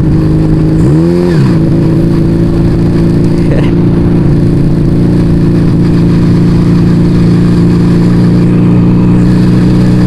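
Yamaha Vega ZR motorcycle's single-cylinder four-stroke engine running through an aftermarket Arrow exhaust while riding at steady speed. About a second in there is one quick rev up and back down, then a steady note again.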